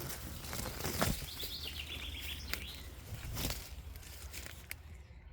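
A wild bird chirping: a quick run of short, repeated high notes near the middle, over a few faint knocks or rustles.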